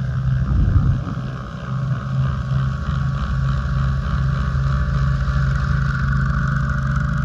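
Snowblower engine running steadily under load, with a pulsing low hum and a hiss above it.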